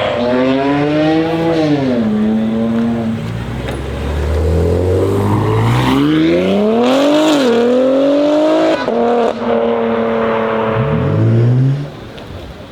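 A modified BMW M3 G80's twin-turbo straight-six with an aftermarket exhaust accelerating hard, the revs climbing and dropping back at each gear change. Near the end there is a short rising rev, and then the sound falls away.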